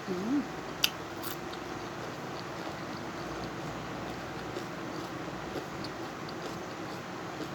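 Steady hiss of light rain, with a brief hummed sound near the start and a sharp click a little under a second in.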